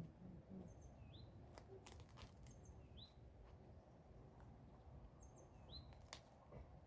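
Faint bird calls: about three short upward-sweeping chirps a couple of seconds apart, with thin high notes between them, over low outdoor background noise and a few faint clicks.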